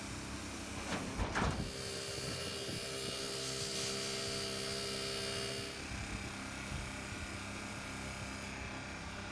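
Iwata airbrush spraying flat black paint, a steady hiss of air over a steady low hum. The hiss eases a little about six seconds in.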